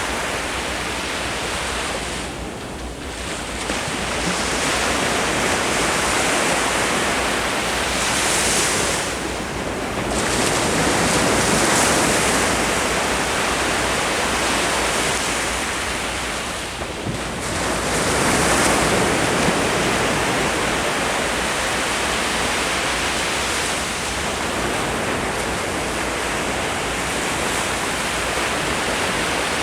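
Ocean surf: waves breaking and washing up the shore as a continuous rush that swells and eases, with brief lulls about three seconds in and again past the middle.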